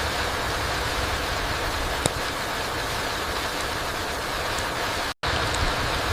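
Steady rain falling on a forest floor, an even hiss of rainfall with one sharp drip-like tick about two seconds in. The sound cuts out completely for a split second about five seconds in, then resumes.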